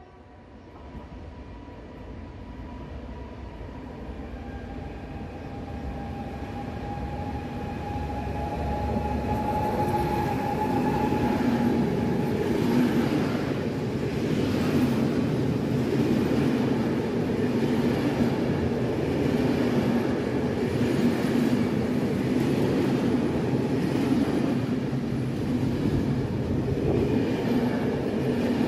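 Freight train approaching and passing along the platform. It grows louder over the first ten seconds or so, with a thin whine for several seconds as the locomotive nears, then settles into a steady loud rumble of loaded flat wagons rolling by.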